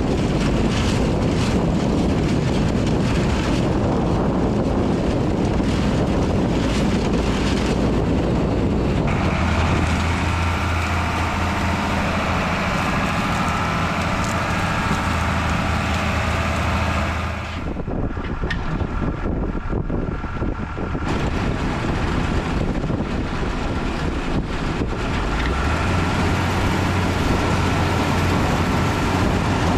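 Tractor engine running steadily under load, with wind buffeting the microphone; the engine sound shifts abruptly about 9 seconds and again about 17 seconds in.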